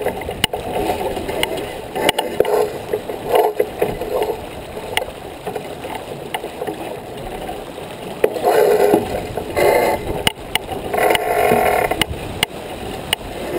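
Water rushing and splashing along the hull of a J24 sailboat under way, with scattered small clicks and knocks. It swells in three louder noisy bursts, at about eight, ten and eleven seconds in.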